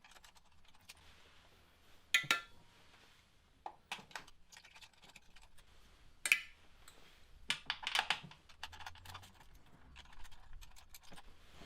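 Scattered metallic clicks and clinks of a ratchet and 10 mm long-reach socket working on the coil-pack bolts of an engine, coming irregularly in short bunches.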